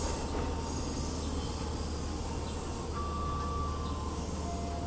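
Electric commuter train running away along the track past the station, a steady low rumble of wheels and motors that fades slightly as it draws off.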